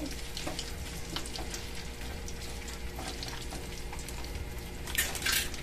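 Fishballs frying in hot oil in a wok, sizzling steadily, with light taps and scrapes of a metal spatula turning them. A louder rasping stretch comes near the end.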